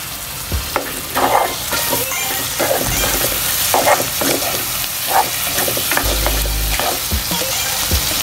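Pork pieces and onion sizzling in hot oil in a pot while a spoon stirs and scrapes through them, mixing in salted shrimp paste (bagoong alamang). A steady sizzle runs throughout, with irregular scraping strokes about once a second.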